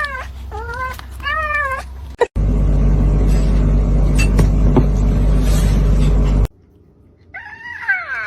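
A cat meows about three times in quick succession. A sudden cut brings a loud, steady noise with a low hum for about four seconds. It stops abruptly, and near the end a cat gives one more falling meow.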